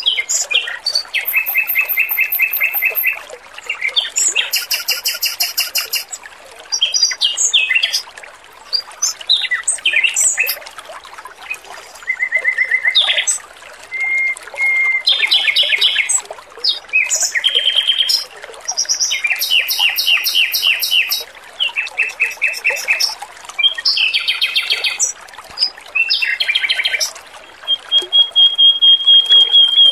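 Male Pekin robin (red-billed leiothrix) singing loud, fast trilled phrases of rapidly repeated notes with short pauses between them, ending on a long, steady whistle. Faint trickling water runs underneath.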